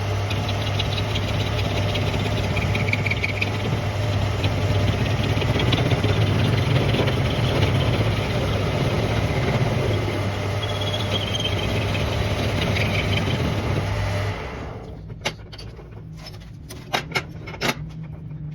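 Workshop machine running with a steady low hum and rough, scratchy noise, which cuts off abruptly about fourteen seconds in. A few sharp metal knocks follow near the end.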